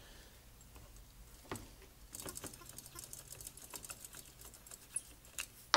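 Small metal carburetor parts and a hand tool being worked: a single click about one and a half seconds in, then a run of quick, light clicks and scratches, ending in a sharper click.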